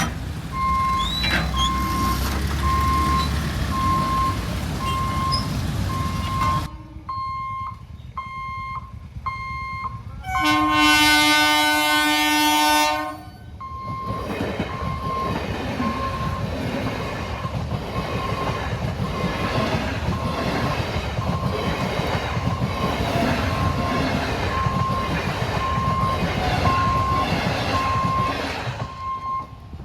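Passenger train at a level crossing: the locomotive horn blows once for about two and a half seconds about ten seconds in, followed by the rumble and rhythmic wheel clatter of the train going by. A short beep repeats steadily about twice a second throughout.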